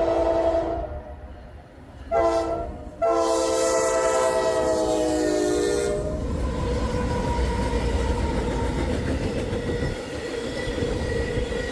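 Diesel locomotive's multi-chime air horn sounding a grade-crossing signal. The end of a long blast is followed by a short blast about two seconds in, then a long blast that drops slightly in pitch as the locomotive goes by. The train then rolls past with its wheels clacking over the rail joints.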